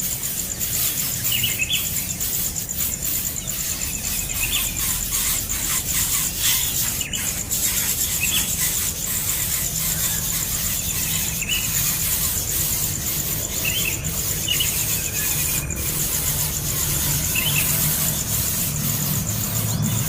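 A young bird's shrill begging calls: short squeals repeated every second or two, over a steady high-pitched buzz.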